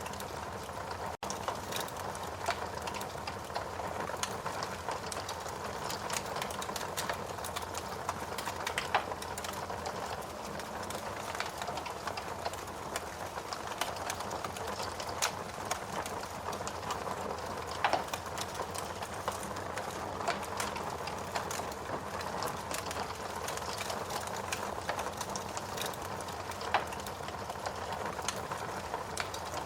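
Logs burning in a fireplace, crackling steadily: a dense run of small snaps over a soft hiss, with a few louder pops now and then.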